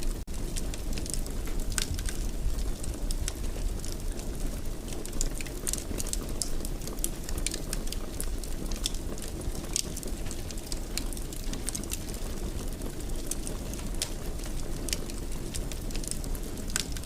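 Wood fire burning in a fireplace: irregular sharp crackles and snaps, several a second, over a steady low rumble of the flames. There is a split-second dropout just after the start.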